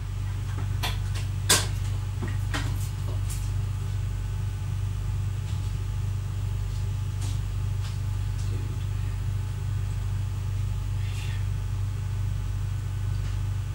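Steady low hum inside the driver's cab of an X11 electric multiple unit, with a few sharp clicks and knocks in the first few seconds.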